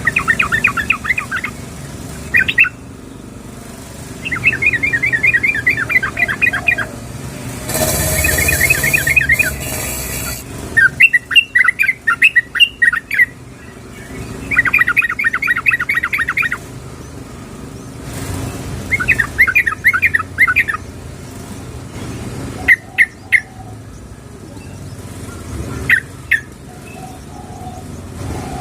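Yellow-vented bulbul calling in a series of fast bubbling trills, each about two seconds long and repeated every few seconds. A few short sharp notes follow near the end. The call is the female's call to a male, as the recording is labelled. A brief burst of hiss comes about eight seconds in.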